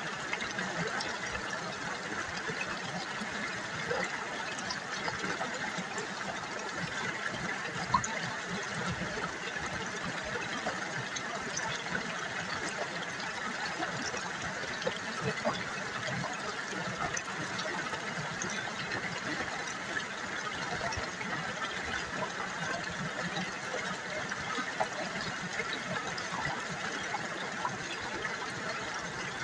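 River water babbling over stones: a steady burble full of small splashes, with one sharper tick about eight seconds in.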